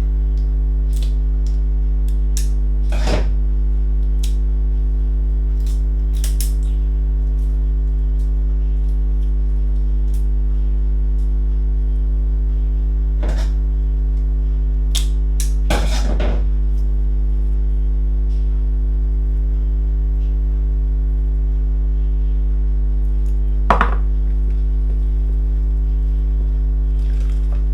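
A steady low electrical hum, with about five scattered clinks of kitchen utensils against a bowl or dish.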